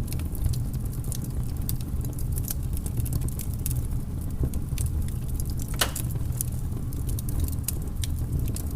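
Firewood burning vigorously, crackling with many small sharp snaps over a steady low rumble, and one louder pop a little more than halfway through.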